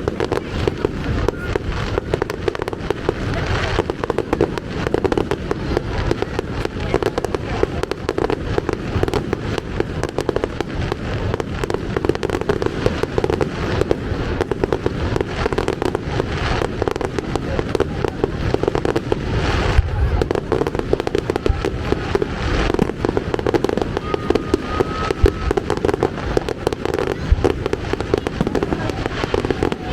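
Fireworks display going off in a continuous barrage: rapid bangs and crackles many times a second without a pause, with a few louder bursts among them.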